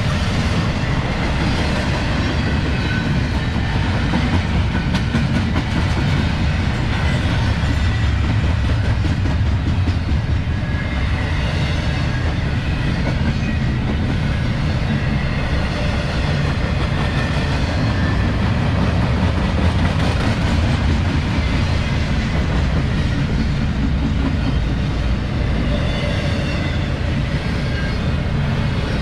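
CSX intermodal freight train rolling past: a steady loud rumble and clatter of steel wheels on rail as the cars go by.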